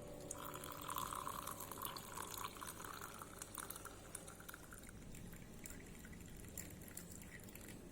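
Liquid poured steadily into a cup for about three seconds, then fainter trickling and drips.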